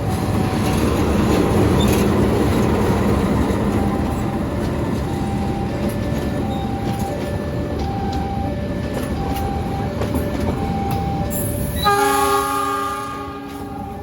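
A passing train rumbling and hissing on the rails, with a two-note electronic warning signal alternating over it. About twelve seconds in, a locomotive horn sounds a chord for about a second, and the train noise then falls away.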